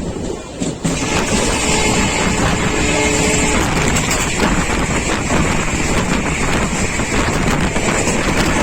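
Express passenger train running at speed, heard from on board: steady rumble and rushing wind on the microphone, which turns suddenly much louder about a second in.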